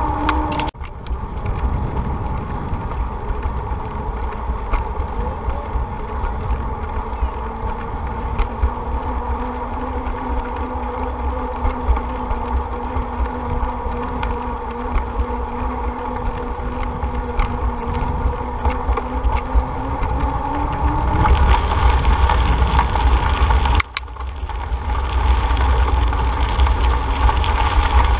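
Wind rumbling on the microphone and rolling road noise while riding a bicycle, with a steady hum whose pitch drifts slowly. The noise gets louder about three quarters of the way through.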